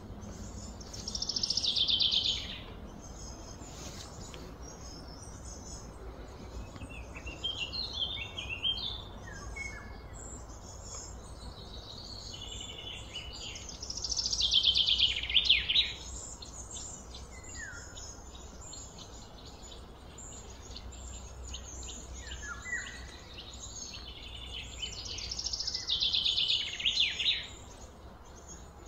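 A songbird singing: three loud phrases of rapid trilled notes, each about two seconds long and roughly twelve seconds apart, with softer chirps in between.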